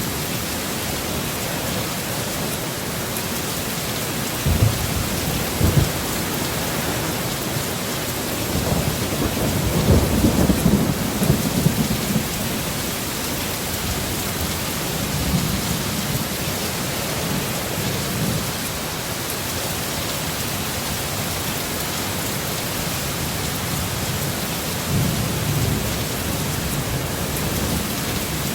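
Heavy steady rain during a thunderstorm. Two short low booms of thunder come about four and six seconds in, a longer, louder rumble follows around ten seconds in, and fainter rumbles come later.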